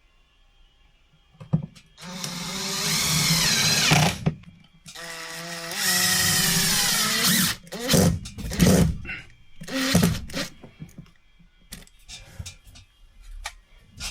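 Power drill running in bursts: two runs of about two seconds each whose pitch sags and shifts, then several short blips of the trigger, with light knocks near the end.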